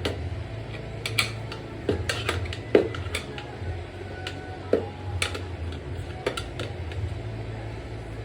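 Metal tire irons clinking and scraping against a pit bike wheel rim while prying the tire off: irregular sharp metallic clanks, the loudest about three seconds in, over a steady low hum.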